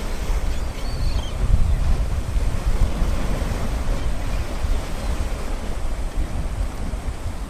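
Small waves breaking and washing up a sandy beach in a steady surf wash, with wind rumbling on the microphone.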